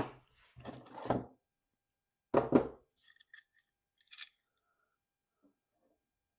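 Metal clanks and knocks of bike parts and tools being handled at a workbench: three louder knocks in the first three seconds, then a few lighter clicks.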